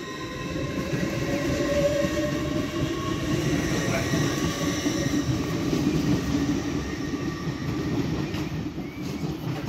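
LNER Azuma train pulling away along the platform: a low rumble of wheels on rail that builds over the first couple of seconds, with a whine from the traction equipment rising in pitch as it gathers speed.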